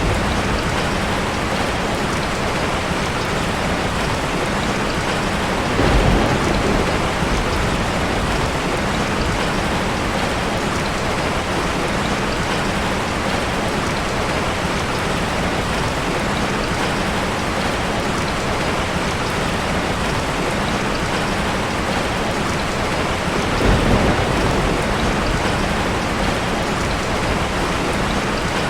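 Heavy rain falling steadily in a dense, even hiss. It swells briefly twice with a low rumble, about six seconds in and again later.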